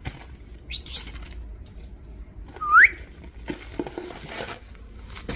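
Cockatiel giving one loud rising whistle about two and a half seconds in, preceded by short high chirps about a second in.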